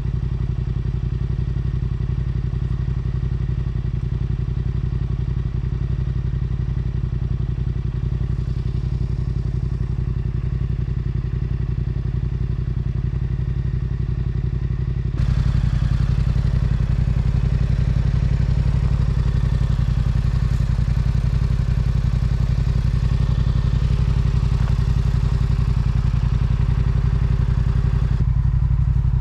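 Yamaha R7's parallel-twin engine running at a steady cruise with an even, unchanging pitch. About halfway through it turns louder and brighter and stays that way.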